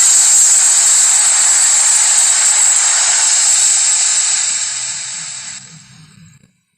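A long, loud, steady hiss that fades away near the end, with a faint low tone under it as it dies out.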